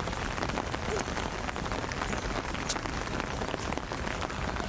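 Steady rain falling, heard as an even hiss with many small drop ticks close together.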